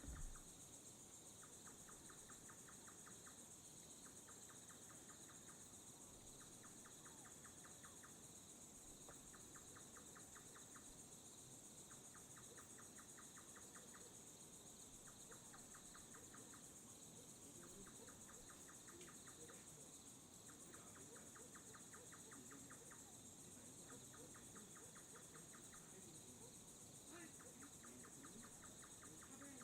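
Faint night insect chorus: a steady high-pitched shrill of crickets, with a nearer insect's pulsing trill that lasts about a second and a half and repeats every couple of seconds.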